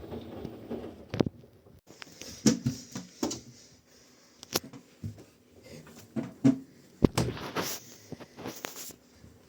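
A steady low hum that stops about a second in, then a run of irregular clicks, knocks and rustles of something being handled.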